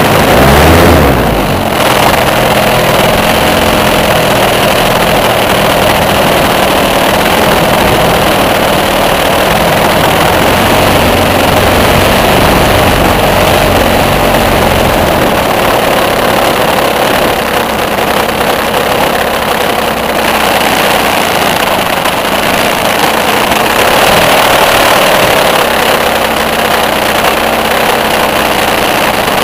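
Radio-controlled model Cessna's motor and propeller running steadily, heard close up from a camera mounted on the plane, with wind rushing over the microphone.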